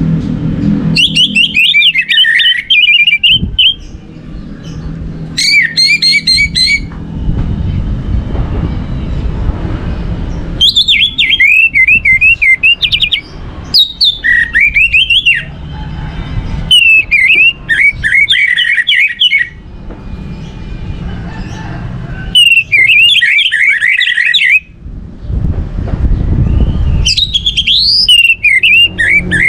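Orange-headed thrush singing: about seven quick, varied warbling phrases, each lasting one to three seconds with short pauses between, over a steady low background noise.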